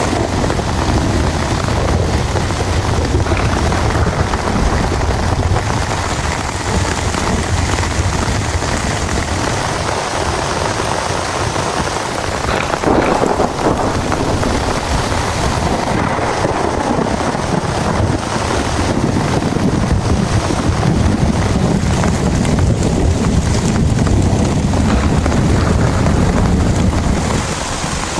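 Heavy rain pouring steadily, over a low rumble that swells again in the last several seconds, with a brief sharp crack around the middle.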